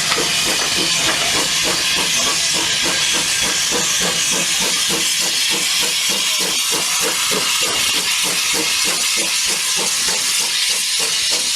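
Steam locomotive hissing loudly with steam, with an even pulsing of about four or five beats a second beneath the hiss.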